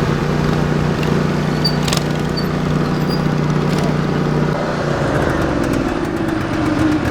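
Mini bike's Predator 212 single-cylinder four-stroke engine held at high revs, then let off about four and a half seconds in, the revs falling away.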